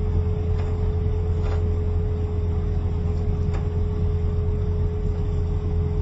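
Steady hum of running factory machinery: a constant low drone with a steady mid-pitched tone over it, and a couple of faint clicks.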